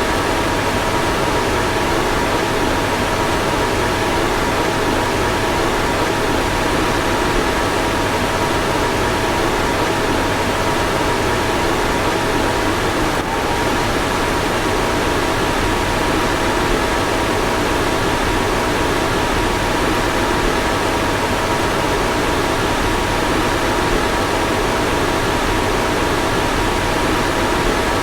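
Car fan running steadily: an even rushing of air with faint steady whining tones over it.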